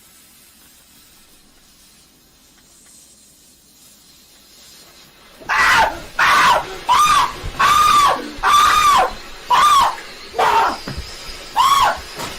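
A person screaming over and over: about nine loud, separate shrieks, each rising and then falling in pitch. They start about five seconds in, after faint background hiss.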